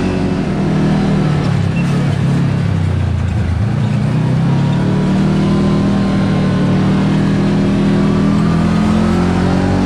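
Kawasaki Teryx KRX side-by-side's parallel-twin engine running under way. Its note drops about two seconds in, climbs back with acceleration and then holds steady.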